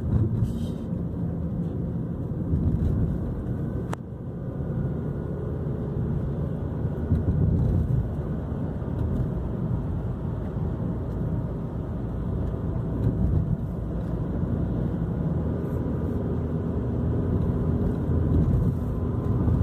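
Steady road noise from a car driving on the highway: low engine and tyre rumble heard from inside the cabin. There is a brief click about four seconds in.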